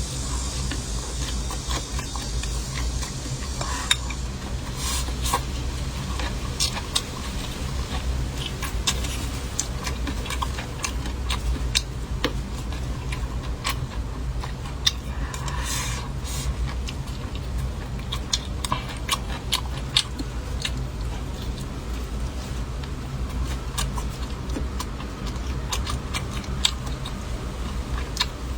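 Eating utensils clicking and scraping against bowls and plates at irregular moments during a meal, over a steady low background rumble.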